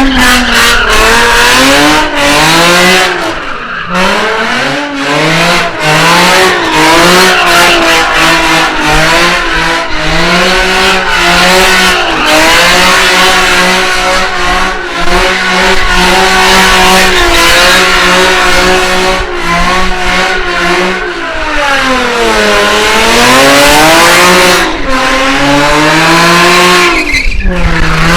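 Car engine revving hard and held at high revs during a burnout, the revs wavering constantly, with spinning tyres squealing. About two-thirds of the way through the revs fall away and climb back up.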